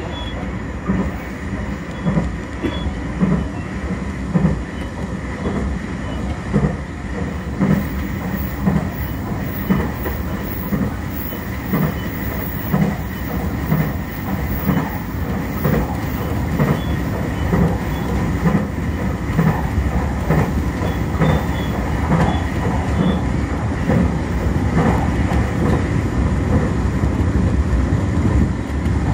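Inside a local electric commuter train running at speed: a steady rolling rumble with repeated clicks from the wheels on the rails, roughly one a second, growing slightly louder over the stretch.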